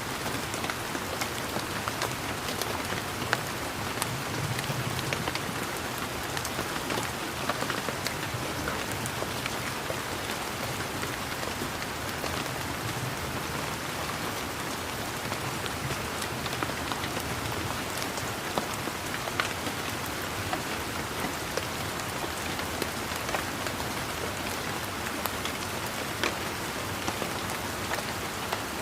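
Steady rain falling on leaves and surfaces, an even hiss dotted with the ticks of individual drops.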